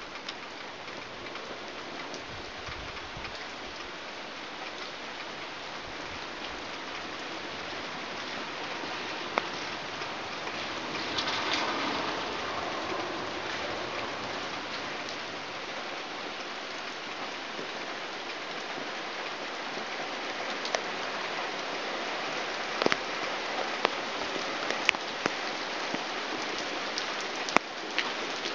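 Torrential rain pouring steadily, swelling briefly about halfway through, with a few sharp taps of drops landing close by near the end.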